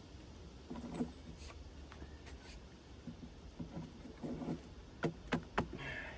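Hand work on sawmill parts: scattered light knocks and scraping, then three sharp metallic clicks in quick succession about five seconds in.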